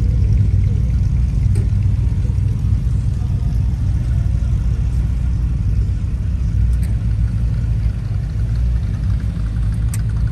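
Car engine idling nearby: a steady, deep, low rumble that holds without revving.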